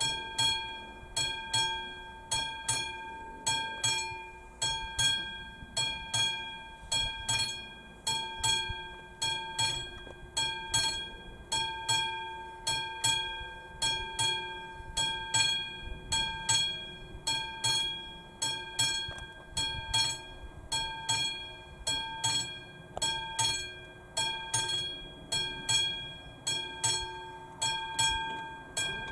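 Level crossing's classic electromechanical warning bell ringing steadily at about three strikes a second, each strike ringing on. It signals that the crossing is closing for an approaching train.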